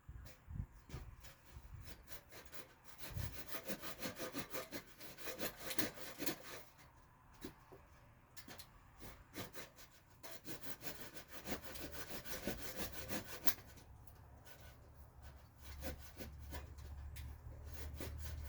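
A hand carving tool working alderwood in quick back-and-forth strokes, in two main runs with short pauses between, as the back of a mask is hollowed out.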